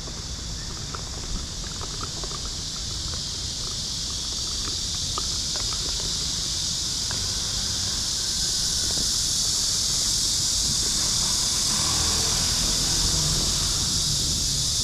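Cicadas buzzing in a continuous high, hissing chorus that grows steadily louder, over a low background rumble.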